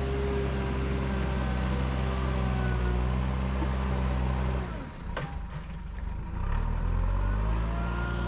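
Car engine running under load while driving, steady at first. About five seconds in the power drops off with a click, as at a gear change, then the engine picks up again, its pitch rising as it accelerates.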